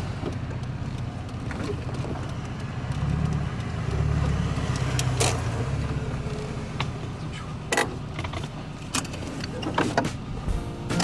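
Rover Mini driving, its engine and road noise making a steady low drone that swells for a couple of seconds, with a few short sharp knocks and rattles about halfway through and near the end.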